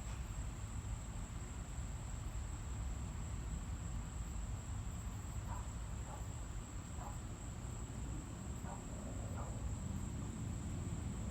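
Crickets trilling in one steady, unbroken high tone over a low rumble, with a few faint short calls in the second half.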